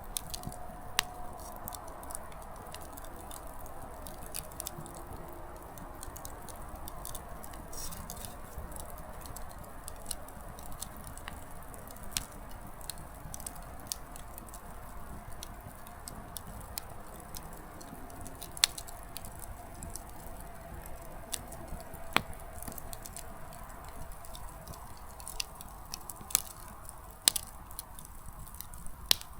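Small wood campfire burning: firewood crackling with many irregular sharp snaps over a steady hiss of flame, and several louder pops scattered through.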